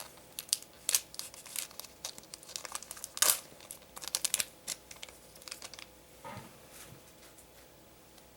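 Foil wrapper of a trading-card booster pack crinkling and tearing as it is opened and handled, in a run of sharp crackles that is loudest about three seconds in and dies down near the end.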